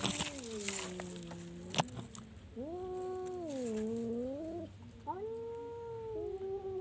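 Orange domestic cat meowing in long, drawn-out yowls, about four in a row, each rising and then sliding down in pitch. There is a single sharp click about two seconds in.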